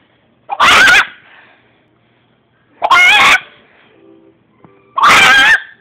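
A young girl imitating a chicken with her voice: three loud, warbling squawks, about two seconds apart.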